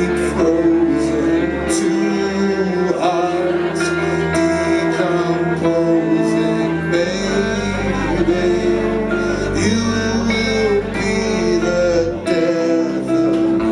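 Live music from a small band: guitar and other strings holding sustained notes over a bass line that moves to a new note every few seconds.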